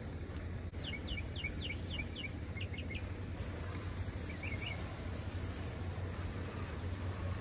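A bird sings a quick run of about nine falling whistles about a second in, then a shorter phrase a little later, over a steady low outdoor rumble. From about halfway through, a garden hose sprays water against the brick wall and window, adding a faint hiss.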